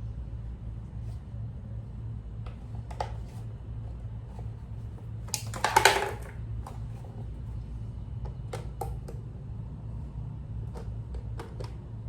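Scattered clicks and light knocks of parts and tools being handled during work on a small engine, with a louder clattering burst about five and a half seconds in, over a steady low hum.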